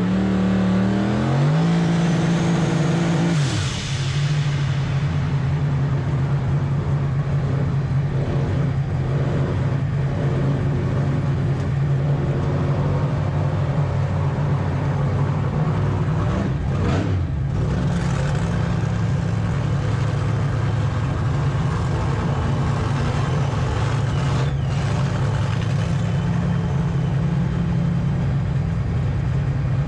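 Drag race car engines running: one revs up, rising in pitch over the first few seconds, then a steady engine drone holds for the rest of the time.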